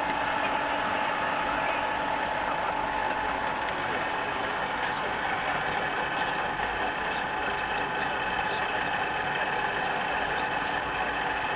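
Milling machine running steadily during gear cutting, with a constant whine.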